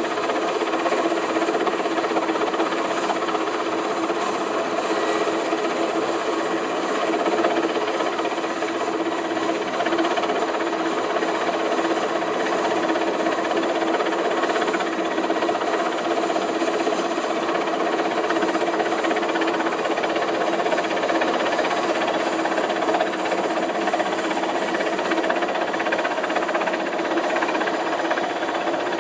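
Helicopter engine and rotor running steadily at a constant pitch, with a dense, juddering mechanical noise.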